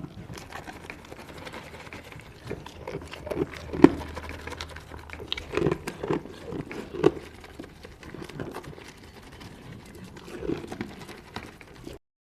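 An animal's short, irregular low-pitched vocal sounds, spaced unevenly, over a faint steady hum.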